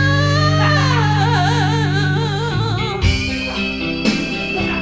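Rock ballad jam: a singer holds one long note that goes into a wide vibrato, over sustained guitar and bass chords that change to a new chord about halfway through.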